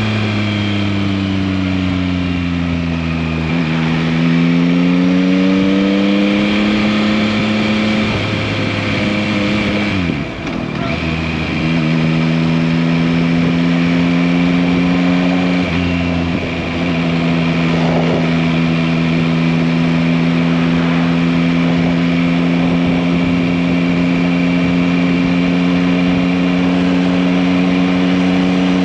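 Yamaha MT-09 (2021, RN69) three-cylinder engine on the move: its note falls for a few seconds, climbs again, drops and picks up quickly about ten seconds in, then holds steady at a constant cruising speed.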